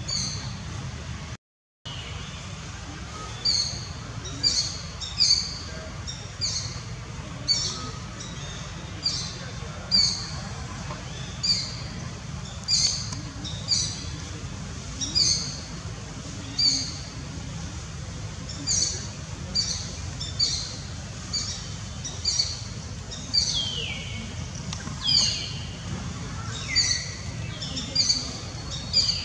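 A bird calling over and over in short, high chirps about once a second, with a few longer calls sliding downward near the end.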